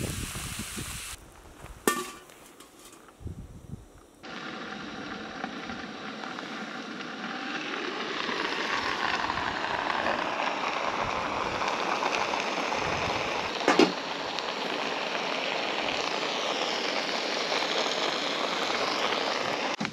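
Tuna in adobo and tortillas frying on a hot steel skottle griddle: a steady sizzle that starts suddenly about four seconds in and gets louder a few seconds later, with a sharp click partway through.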